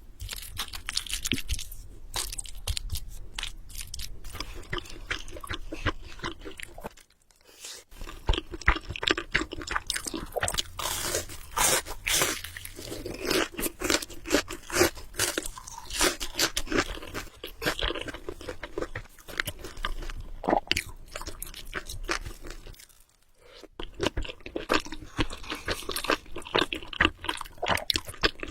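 Close-miked eating sounds: Samyang Buldak carbonara noodles being chewed and slurped, with dense irregular wet clicks and crunches. Two brief pauses, about seven seconds in and again near twenty-three seconds.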